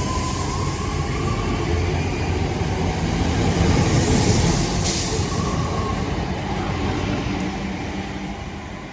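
A pair of Hunslet Class 323 electric multiple units pulling out of a station. The rumble builds to its loudest about four seconds in, then fades away toward the end.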